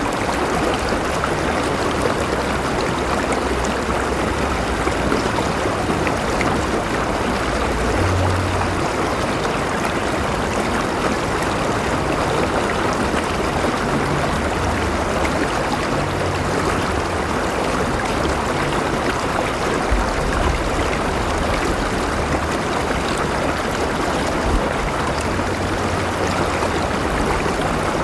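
Flowing river water, a steady rushing and babbling.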